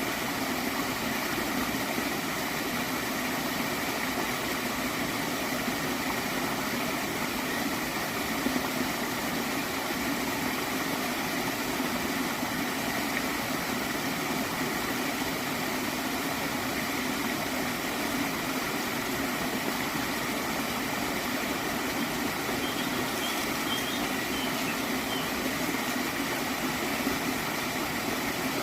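Shallow stream water flowing steadily with a gentle gurgle.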